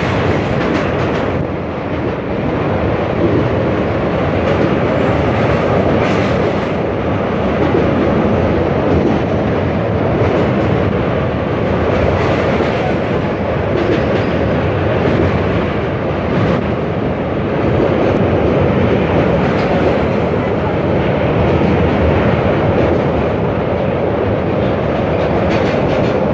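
Train running across a steel truss rail bridge, heard from the open side of a moving carriage: a loud, steady rumble of wheels on the track.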